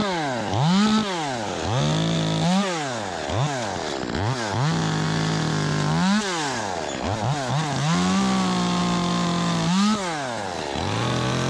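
Ported Echo 25 top-handle two-stroke chainsaw revved up and down in quick blips, with three stretches of several seconds held at a steady, slightly lower pitch while it cuts through a limb.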